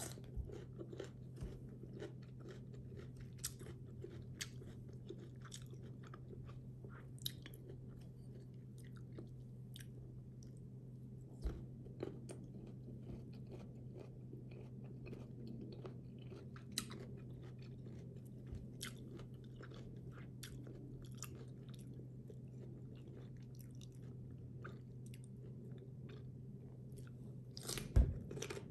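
Close chewing of crisp raw green mango slices: an irregular run of small crunches and clicks over a low steady hum, with a sharper knock near the end.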